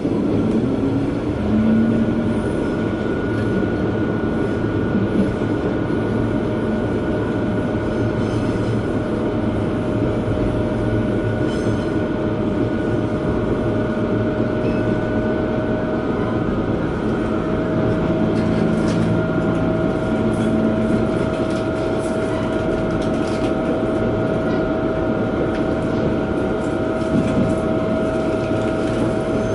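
Inside a diesel railcar running along the line: the steady rumble of the engine and of the wheels on the rails, with a constant high whine running through it.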